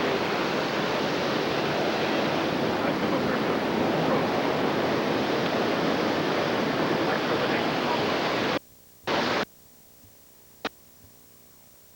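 Creek water rushing, a steady even noise that cuts off abruptly about two-thirds of the way through. A half-second snatch of it comes back, then a single click.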